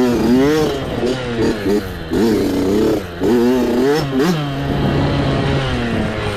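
Small mini bike engine revving up and down over and over as the throttle is worked, rising and falling in quick swings, with a few knocks and rattles from the bike.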